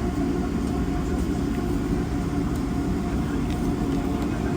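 Steady rumble of a moving passenger train heard from inside the carriage, with a few faint light clicks over it.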